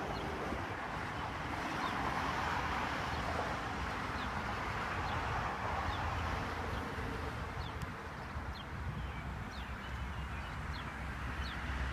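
Outdoor ambience ahead of a storm: a steady rush of wind with a low rumble. Short high chirps repeat irregularly from a few seconds in.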